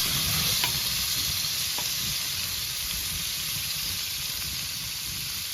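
Food sizzling on a wood-fired grill: a steady hiss with a few faint crackles, easing slightly quieter.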